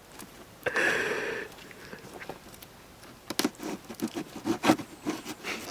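Cardboard packaging being torn open and handled: a short rasping rip about a second in, then scattered crackles and crunches.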